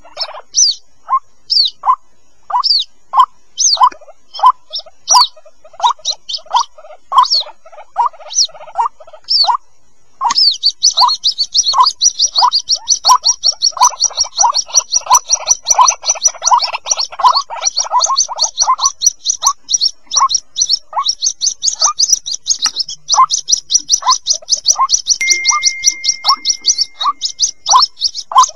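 White-breasted waterhen chicks calling: short notes repeated about twice a second, joined from about a third of the way in by a dense, fast run of high-pitched cheeps.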